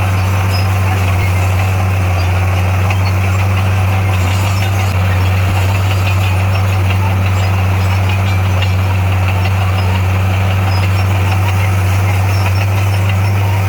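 Heavy-equipment diesel engine running steadily, a constant deep drone under a rough mechanical clatter.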